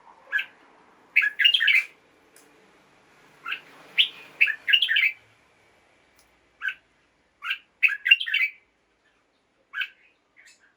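Red-whiskered bulbul singing: short bursts of quick chirping notes in clusters, with pauses between phrases.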